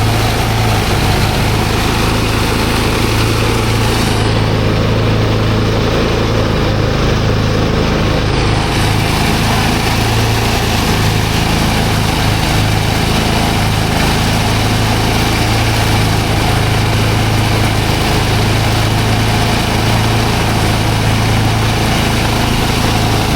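Engine-driven rice thresher running steadily, its engine giving a continuous low drone with a rushing noise above it.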